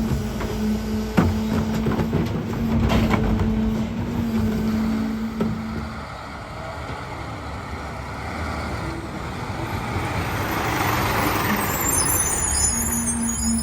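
Peterbilt 520 garbage truck with a Heil DuraPack 5000 rear-loader body working: a steady hum with knocks and clanks stops about six seconds in, then a hiss of air swells and fades, and the hum starts again near the end.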